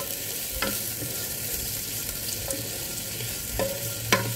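Chopped onion and tomato sizzling in melting margarine in a Hanabishi multi-cooker's nonstick pot while a spatula stirs them. The spatula knocks against the pot three times, each knock ringing briefly, the loudest near the end.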